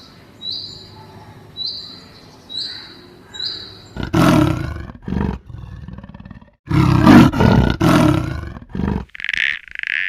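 A series of five short high-pitched calls about a second apart, then a lion roaring loudly and roughly in long bursts for about five seconds.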